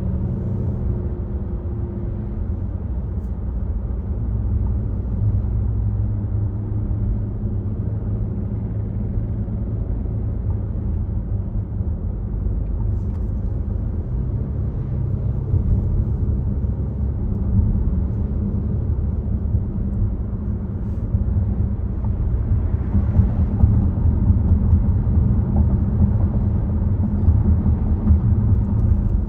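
Volvo XC60 driving at speed: a steady low rumble of tyres and engine, growing slightly louder in the last third.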